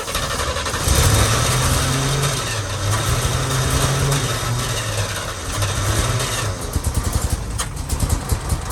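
A 1966 International Harvester BG 241 straight-six engine being cranked and catching about a second in, then running loudly under light throttle. From about six and a half seconds it runs unevenly, with ragged firing pulses. This is a long-dormant engine firing on freshly fitted points.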